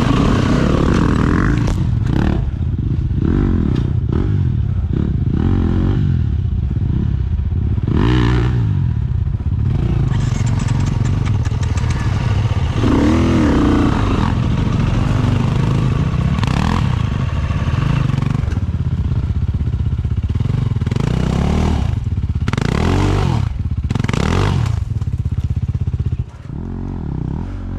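Dirt bike engine revving up and down over and over as it is ridden over rough ground, with clattering knocks from the bike's chassis and suspension. The engine eases off briefly near the end.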